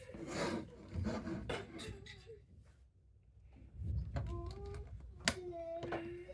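Plastic Lego pieces rattling and clicking as they are handled. From about four seconds in, a child's voice holds a long hummed, sing-song note, with one sharp click partway through.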